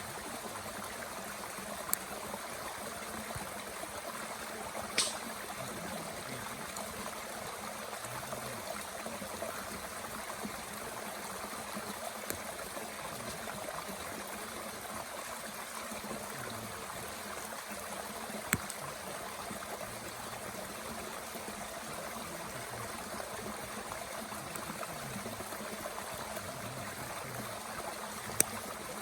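A mountain stream flowing steadily, with four sharp pops from wood burning in a small Bushbox twig stove, the loudest near the end.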